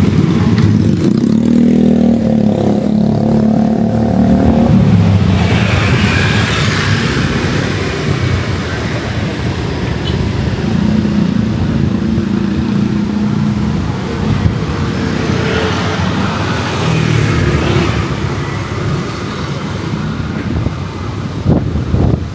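Road traffic passing, motorbikes and cars, with engines rising and fading several times, under a heavy rumble of strong wind buffeting the microphone.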